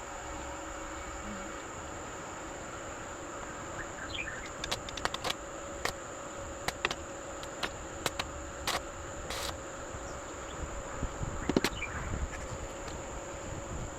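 Steady high chirring of insects, likely crickets. From about four seconds in, a scattered run of short sharp clicks and knocks breaks through, the loudest near the end.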